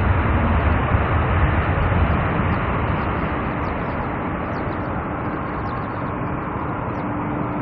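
Jet airliner engines: a steady, loud rushing noise that eases a little after about three seconds.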